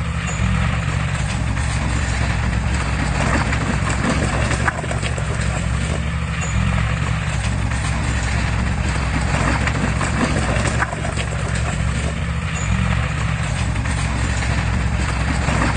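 Diesel engine of heavy construction machinery running steadily under load, with a constant clatter of metal knocks over it.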